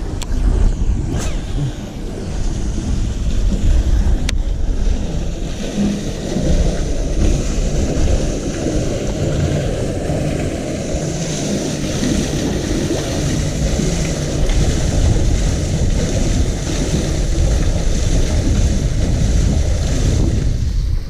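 Strong wind buffeting the microphone, a loud, uneven rumble, with a few sharp clicks in the first few seconds.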